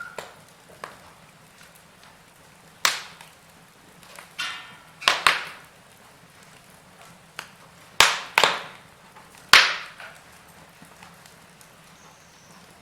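Wood fire burning in a fireplace: logs crackling, with a handful of loud, sharp pops at irregular intervals, the loudest about three, eight and nine and a half seconds in, over a quiet background.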